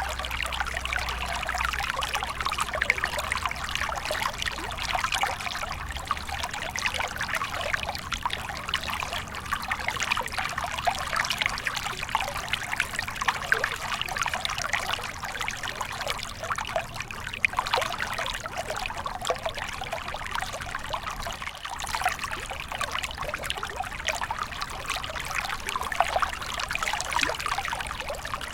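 Small stream flowing steadily over rocks, a continuous babbling trickle with many small splashes.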